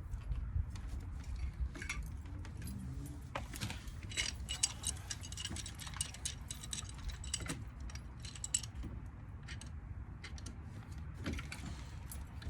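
Metal tools and parts of a ceiling fan motor clicking and clinking irregularly as the motor is taken apart, over a steady low rumble.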